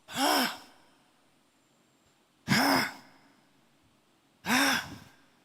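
A man's voice through a microphone giving three short, breathy sighs about two seconds apart, each rising and falling in pitch.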